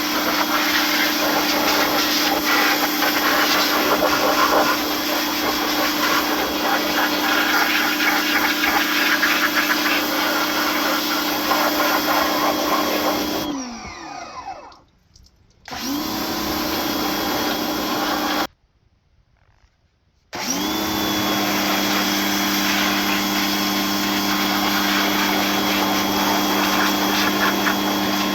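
A motor-driven machine running with a steady hum and a rushing noise. About 13 seconds in it winds down to a stop, then restarts briefly. It cuts off abruptly around 18 seconds and starts back up two seconds later with a rising whine.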